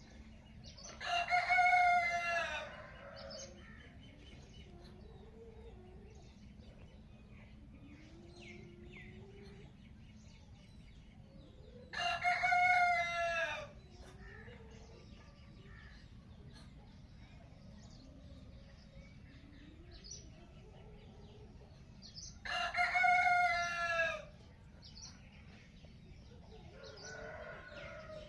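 A rooster crowing three times, about ten seconds apart, each crow lasting under two seconds. Small birds chirp faintly in between over a steady low background.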